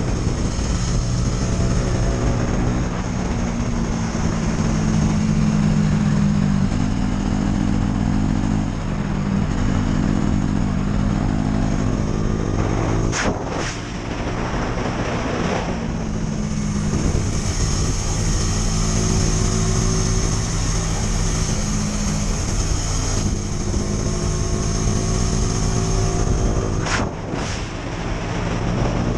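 KTM 250 Duke's single-cylinder engine running, its pitch drifting up and down. Twice, about halfway through and near the end, the engine note dips with a quick pair of sharp cracks.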